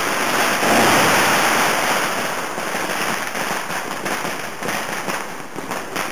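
Fireworks and firecrackers crackling in a dense, continuous barrage of rapid cracks and pops, loudest about a second in and breaking up into more separate cracks toward the end.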